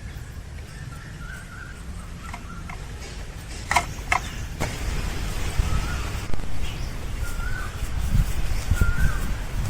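A bird giving short, repeated chirps, one every second or two, over a low background rumble. A few sharp knocks come about four seconds in.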